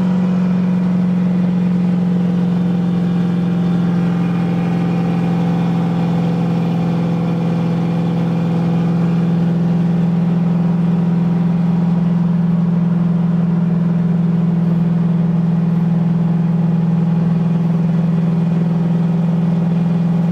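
Car engine running at a constant speed: a steady low drone that holds one pitch throughout, as when cruising.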